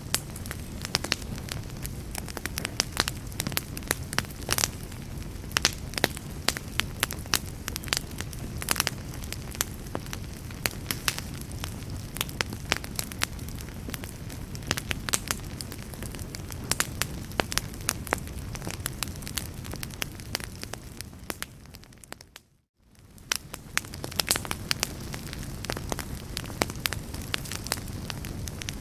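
Wood fire crackling, with frequent sharp pops over a steady low rumble. The sound fades out briefly and fades back in a little over three-quarters of the way through.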